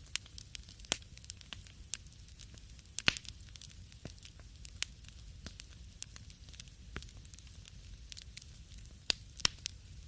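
Fire crackling in a fireplace: irregular sharp pops over a soft hiss and low rumble, with louder pops about three seconds in and again near the end.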